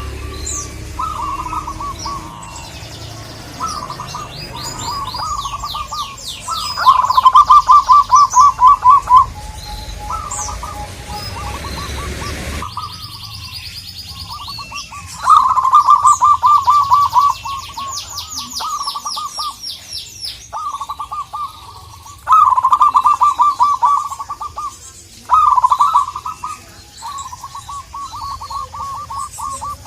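Zebra doves (local perkutut) cooing: repeated runs of quick staccato coo notes, several birds calling in turn. Thin high chirps from small birds sound between the runs.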